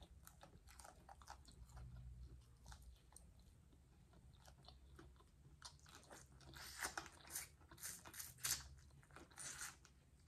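A person biting and chewing crunchy fried food close to the microphone: faint, crackly crunches that grow louder and more frequent about six seconds in.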